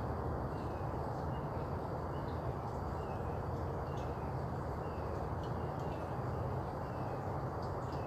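Outdoor ambience: a steady background noise with a low hum, and faint small bird chirps, short falling notes repeated every half second or so.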